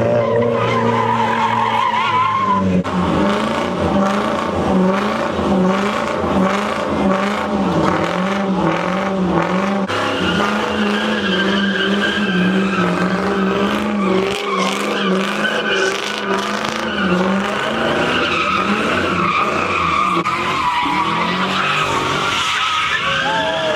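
Car engine held at high revs, its pitch wobbling up and down in a steady rhythm, while the tyres spin and squeal on the pavement in a burnout.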